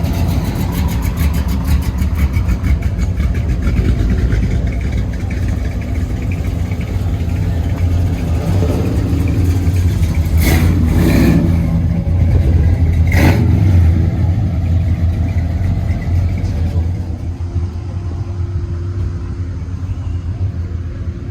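Car engine running with a deep, steady exhaust rumble, rising a little with a few short blips around the middle.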